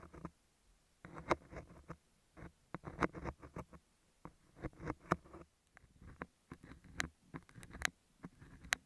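Beeswax sheet being scraped, pressed and picked against earphone microphones with an ear pick and a scaler. It comes as short bursts of sticky clicks and scratches with brief pauses between them.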